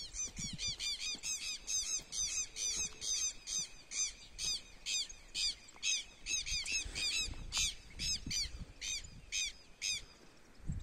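A bird calling in a fast series of short, harsh, repeated notes, about three a second, breaking off about nine and a half seconds in.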